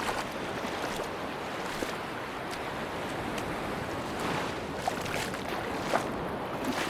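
Sea waves washing on a beach with wind, a steady rush, with a few faint short clicks scattered through it.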